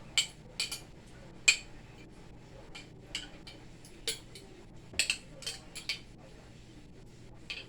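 Kitchen utensils and dishes being handled: about a dozen sharp clinks and knocks at irregular intervals, the loudest about one and a half seconds in.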